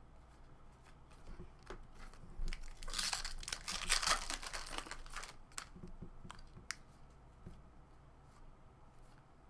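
Foil wrapper of a 2017 Topps Series 1 baseball card pack being torn open and crinkled, loudest about three to five seconds in, with a few light clicks before and after.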